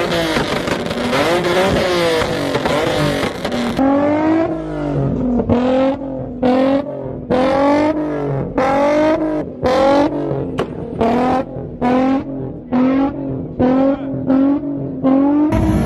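Modified car engine with a loud exhaust revving, its pitch sweeping up and down. About four seconds in it gives way to repeated quick throttle blips, a little over one a second, each rising and falling.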